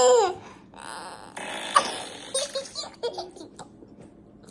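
Baby laughing, opening with a loud high squeal and trailing off into quieter breathy giggles that fade out in the second half.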